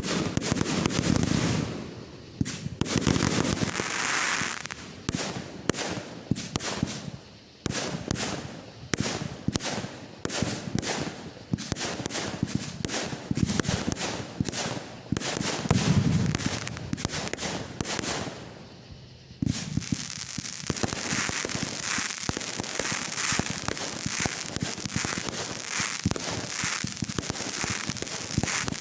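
Fireworks going off: a rapid string of sharp bangs with several deeper booms. About two-thirds through, this gives way to a dense, continuous crackling.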